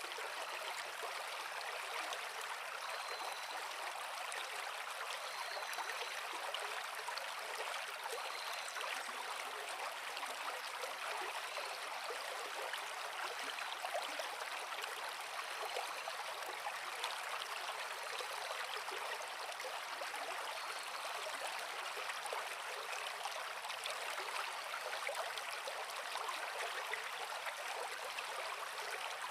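Forest creek flowing over rocks: a steady, even rush of running water with no pauses or changes.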